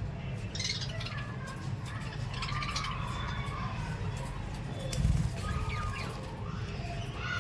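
Small parrots, lovebirds and budgies, chirping with short calls and pitch glides over a steady low hum. A dull thump comes about five seconds in.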